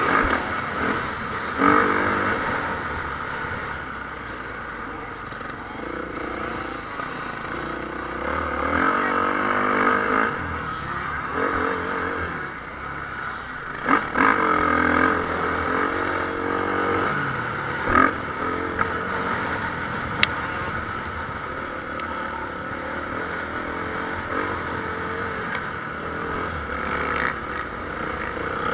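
Motocross bikes racing, engines revving up and falling off again and again as riders work through the track, with a few sharp knocks along the way.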